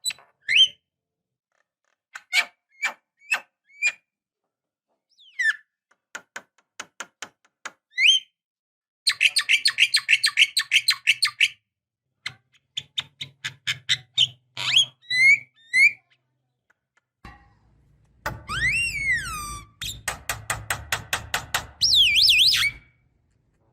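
Javan myna calling in a varied series: sharp clicks and short whistled notes, fast repeated chattering runs, and a long swooping whistle near the end.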